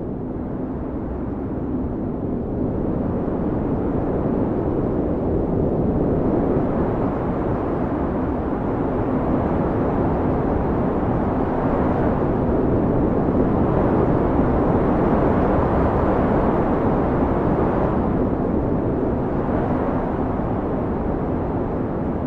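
Snowstorm wind: a steady low rushing noise that swells and eases in slow gusts.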